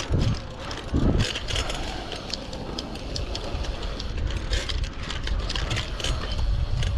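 Bicycle being ridden on a dirt track: a steady low rolling rumble with many quick ticks and rattles, and two heavy thumps near the start.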